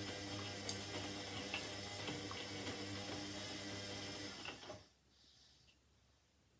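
Indesit 71252 washing machine running water through, a steady hum under rushing water with a few small ticks. It cuts off abruptly about five seconds in.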